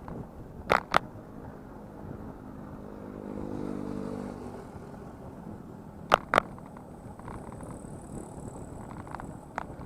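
A motor vehicle's engine passing, swelling and fading in the middle, over steady wind and road noise from the ride. Sharp knocks come in pairs, about a second in and about six seconds in, with another near the end.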